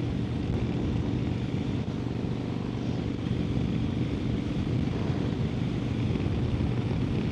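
Harley-Davidson Sportster 1200's air-cooled V-twin engine running steadily at cruising speed, with wind rushing over the microphone.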